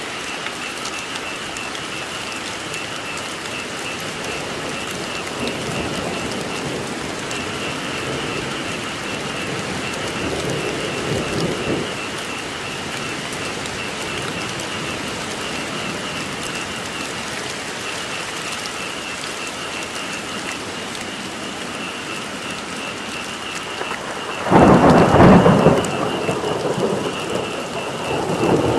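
Steady heavy rain falling, with frogs calling in a continuous pulsing chorus. Softer rumbles of thunder swell in the middle, then two loud thunder rumbles break out about four seconds before the end and again at the very end.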